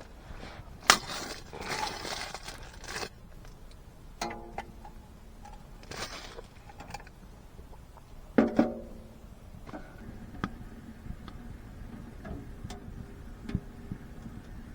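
Hard objects being handled: clicks, a scraping rustle, and two ringing metallic clanks, the louder one about eight and a half seconds in.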